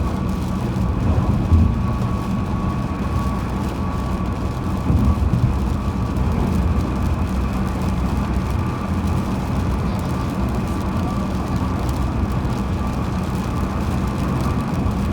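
A car driving at highway speed: steady road and engine rumble with a thin, steady whine above it, and two brief louder bumps, about one and a half and five seconds in.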